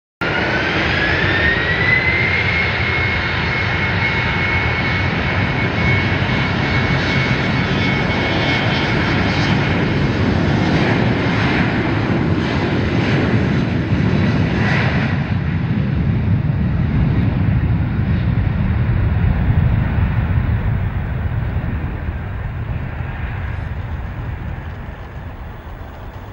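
Aircraft engine running loudly, a steady roar with a whine that rises in pitch over the first two seconds and then holds, fading over the last few seconds.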